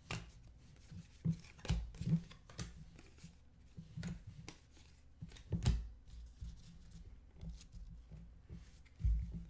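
Trading cards being handled and set down on a table: a run of soft taps, slides and clicks with a few louder knocks, the loudest about five and a half seconds in.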